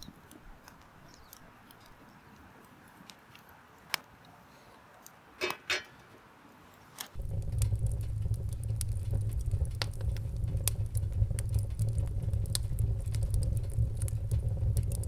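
A few light metallic clinks. Then, starting suddenly about seven seconds in, firewood burning in a lightweight mesh fire pit: a steady low rumble with scattered sharp crackles and pops.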